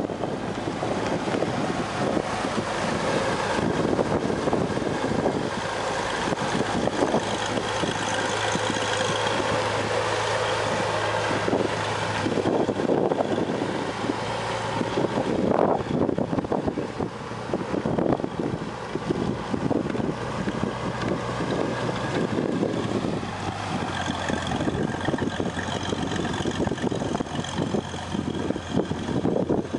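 Towmotor yard fork truck's propane-fuelled Chrysler engine running, with a steady low hum and loudness that rises and falls a little.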